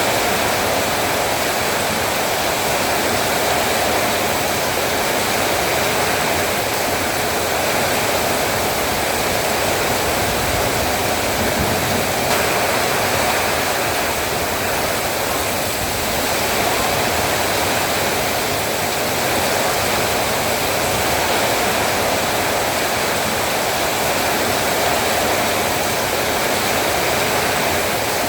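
Heavy rain falling steadily, a dense even hiss with no pauses or separate drops standing out.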